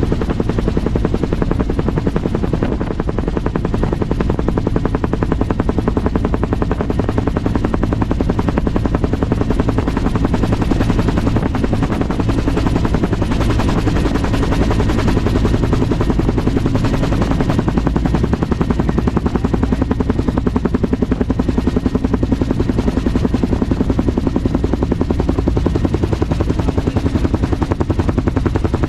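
Helicopter rotor chopping steadily, a rapid, even pulsing over the engine noise.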